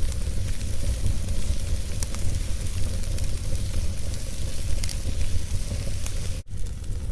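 Wood fire burning in a fireplace, crackling steadily over a low rumble, with scattered small pops. About six and a half seconds in, the sound cuts out for an instant.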